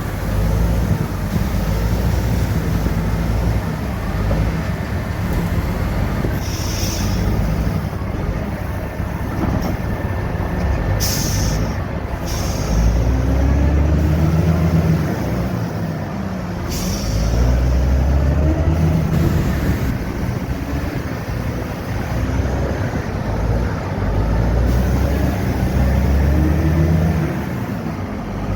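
Caterpillar 3406 diesel engine of a dump truck running under way, its pitch climbing and dropping back several times as it works through the gears. Short hisses of air cut in a few times.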